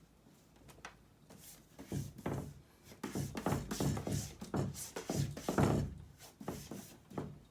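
A cat scratching and rubbing at a wooden desk: a run of quick scraping strokes with soft thuds, starting about a second in and stopping just before the end.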